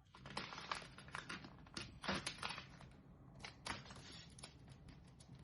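Paper being folded and creased by hand: faint, irregular rustles and small taps as a paper airplane's wing is folded over and pressed flat.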